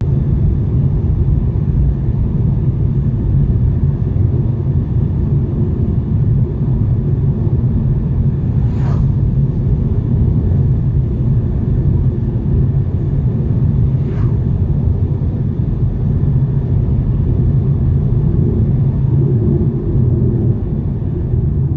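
Steady, loud low rumble of a vehicle on the move, starting and stopping abruptly, with two faint brief sweeps about nine and fourteen seconds in.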